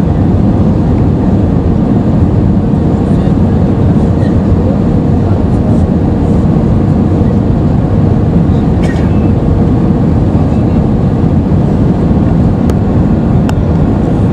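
Steady cabin rumble of an Airbus A320-214 with its CFM56 engines running, heard from inside the passenger cabin, with a faint steady hum and a few faint clicks later on.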